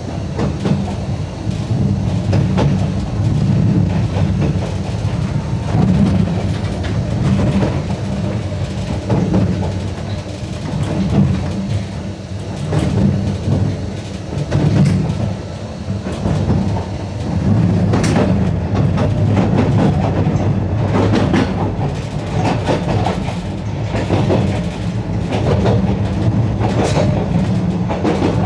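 Narrow-gauge electric railcar running along the line, heard from on board, with a steady low rumble. From about two-thirds of the way in, the wheels click over rail joints in quick irregular runs.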